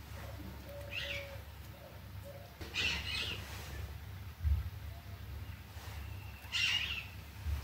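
Birds chirping in three short bursts over a low steady hum.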